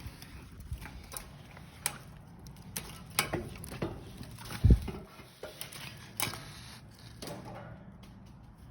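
Irregular knocks, clicks and scrapes of someone climbing, with one loud, dull thump about halfway through.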